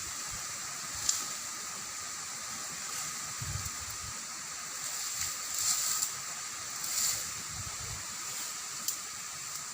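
Steady rain falling, an even hiss with a few sharp clicks and brief low thuds.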